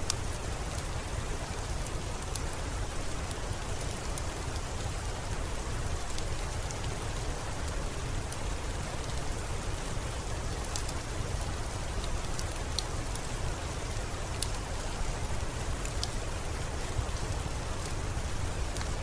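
Steady rainfall, an even hiss with a low rumble underneath and scattered sharp ticks of single drops.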